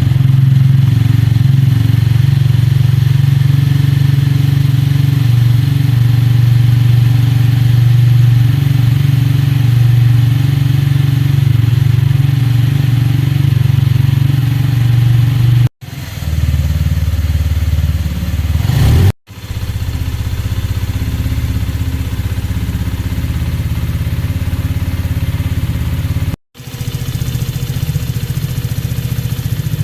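Benelli Keeway SR 125's single-cylinder four-stroke engine idling steadily after a start. It breaks off abruptly three times and picks up again at once.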